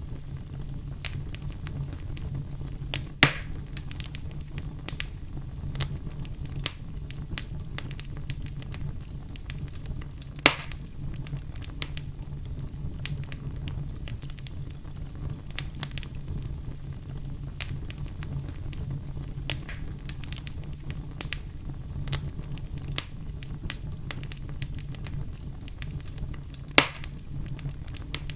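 Fireplace fire crackling, with a steady low rumble under a constant scatter of small crackles and three louder sharp pops, about three seconds in, about ten seconds in and near the end.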